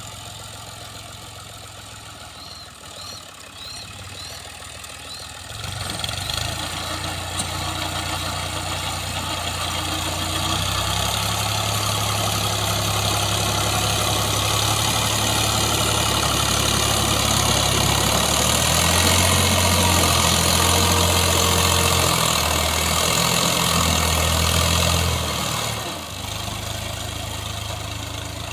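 Al-Ghazi tractor's diesel engine running at low revs, then revved up about six seconds in and held hard and rising, as if under load, before easing back near the end.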